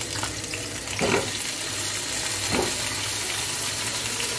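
Potato chunks frying in hot oil in a pan, a steady sizzle with two louder bursts about a second and two and a half seconds in as more pieces are dropped in.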